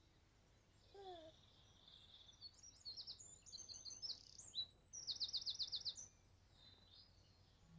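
Birdsong: high chirps and trills, ending in a quick even run of about eight chirps.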